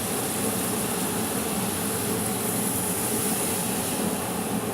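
Chilli-chicken sauce sizzling steadily in a pot on the stove, just after the marinade has been poured in with the wine and vegetables.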